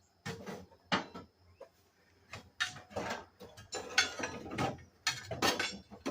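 Irregular metallic clicking and clanking of a chain wrench working the crank pulley of a long-seized engine, sparse at first and busier in the second half. The pulley is turning without moving the engine, which the men suspect is a sheared Woodruff key.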